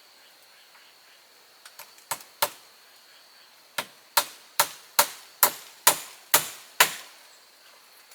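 Hand tool striking wood: a few light taps, then a run of about eight hard, evenly spaced blows a little under half a second apart.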